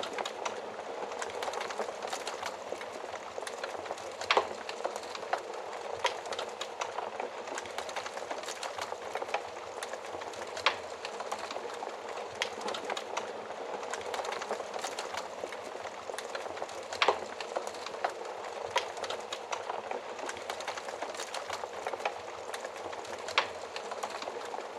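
Wood fire burning in an oven: a steady hiss of flames with many sharp crackles and pops, a few louder snaps about 4, 10, 17 and 23 seconds in.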